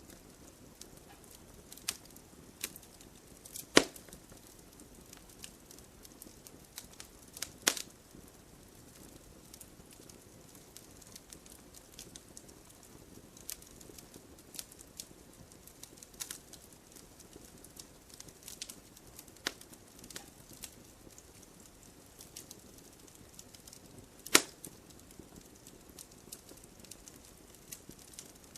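Firewood burning in a fireplace: a soft steady hiss with irregular small crackles, and three sharp pops from the logs about 4, 8 and 24 seconds in.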